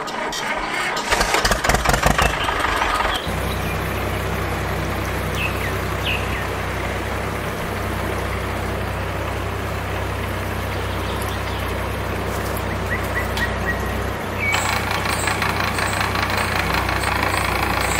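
A mini tractor's small engine starting with an uneven clatter for about three seconds, then running steadily; the sound grows a little fuller near the end.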